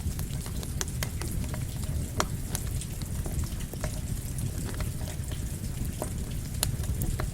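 Campfire crackling with rain falling: a steady low rush dotted with frequent sharp, irregular crackles and pops.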